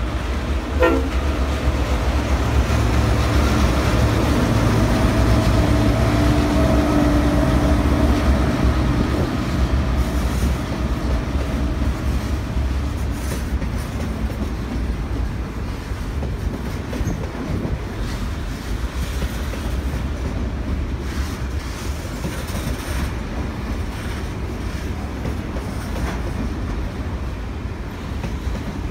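Diesel freight locomotive passing close with its engine rumbling, then a long train of hopper wagons rolling by with a steady rattle of wheels over the rail joints.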